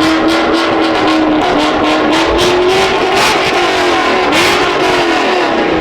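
Loud car engines revving. One is held at a steady high pitch that wavers and dips about midway, with two sharper bursts of revving in the middle.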